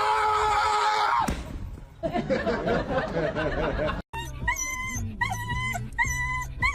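A long, held high-pitched wailing cry breaks off about a second in; after a cut, a dog yelps and whimpers in short high calls, about two a second.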